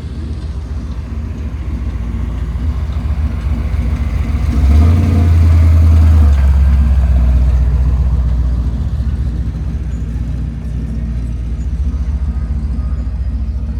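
A car engine running close by with a low, pulsing rumble. It grows louder about five seconds in, then eases off gradually.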